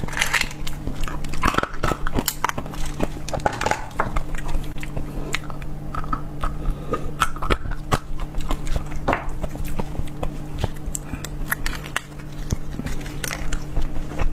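Close-miked ASMR eating: biting and chewing food, with many short crackly clicks and wet mouth sounds, over a steady low hum.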